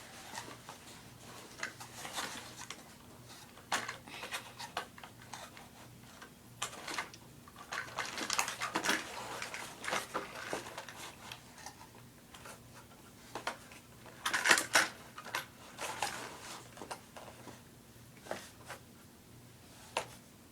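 Toy train set packaging being handled and pried at to free the cars: scattered clicks and rustling, with louder bouts of rustling about halfway through and again a few seconds later.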